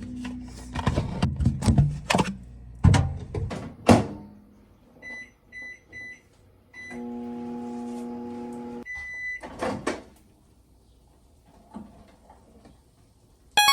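Knocks and clatter of things being handled, then a microwave oven's keypad beeping three or four times, the oven running with a steady hum for about two seconds, and a longer beep as it stops, followed by a few more knocks.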